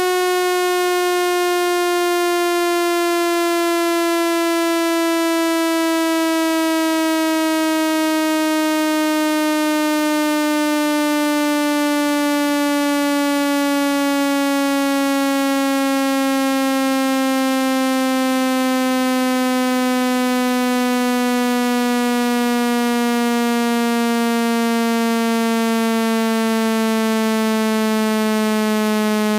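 Synthetic buzzing tone for ejecting water from a phone speaker, loud and steady, gliding slowly down in pitch.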